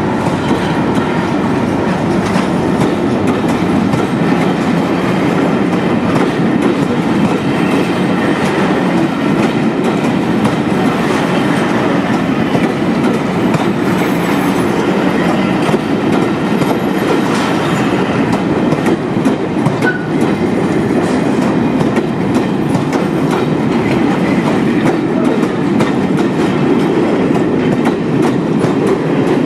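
Umber-and-cream Pullman carriages of the VSOE (British Pullman) train rolling past close by at steady speed: an even, continuous rumble of steel wheels on rails with some clickety-clack.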